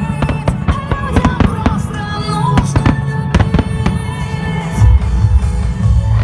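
Aerial firework shells bursting and crackling in quick succession, over loud music playing along with the pyromusical show.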